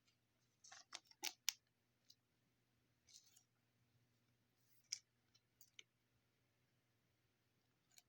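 Faint handling of glossy trading cards: soft clicks and short rustles as the cards are slid and flipped, busiest about a second in, then a few single ticks, over a faint steady hum.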